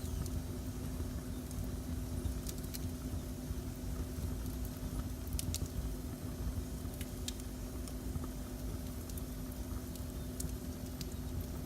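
Wood fire in a fireplace crackling, with scattered sharp pops over a low steady rumble and a faint hum.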